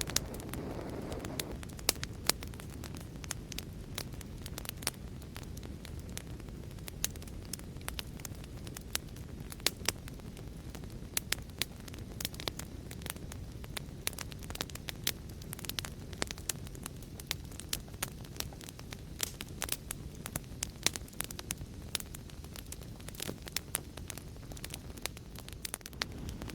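Wood fire crackling: a steady low rumble with many irregular sharp pops and snaps.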